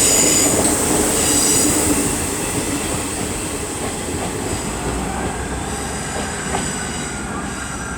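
Two coupled Class 158 diesel multiple units pulling away, their wheels squealing on curved track for the first couple of seconds. The running sound of the units then fades steadily as they accelerate off.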